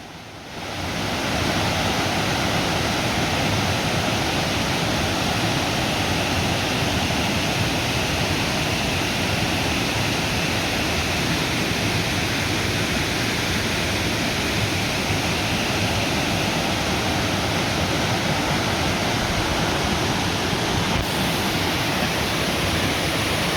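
Tad Sae waterfall's cascades: a steady, even rush of falling water, fading in over the first second or so.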